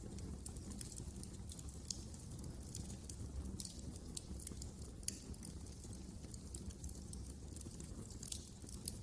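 Wood fire crackling, with frequent small, irregular pops and snaps over a low, steady rumble.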